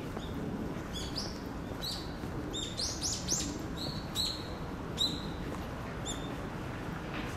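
Birds chirping in the trees: a series of short, high chirps, several swooping down in pitch, quickest near the middle. A steady low city rumble runs underneath.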